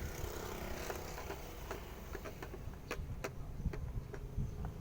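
Hard plastic Lego pieces clicking and knocking together in a string of irregular, short, sharp clicks as the container is set back onto the Lego flatbed trailer.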